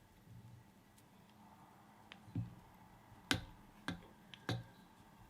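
About four light, sharp clicks and taps from fly-tying work while opal mirage tinsel is wound in open turns up the body of a fly held in a vise.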